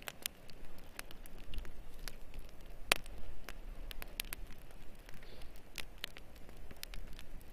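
Campfire crackling: sharp, irregular pops over a soft hiss.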